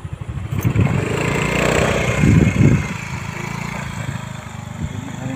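Small motorcycle engine running at low speed, its level swelling between about one and three seconds in before settling back.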